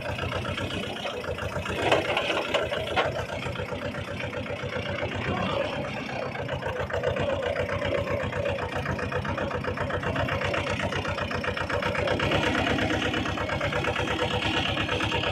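Tractor engine running steadily at idle with an even, rapid firing beat, and two short sharp knocks about two and three seconds in.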